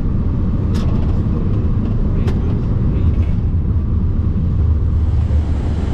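Steady low rumble of airflow and engines in the cockpit of an Airbus A340-300, with two brief clicks, one about a second in and another a second and a half later.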